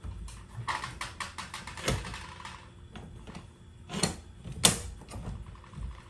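Rattling clicks, then several sharp knocks, from tools and metal parts being handled and set down; the loudest knock comes just under five seconds in.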